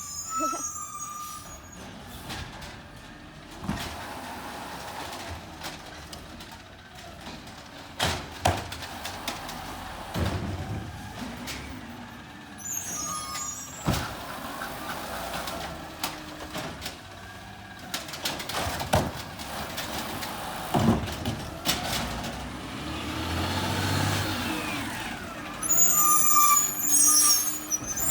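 Garbage truck working a collection route: its diesel engine runs under repeated knocks and bangs, and its air brakes hiss sharply twice, about halfway through and again near the end.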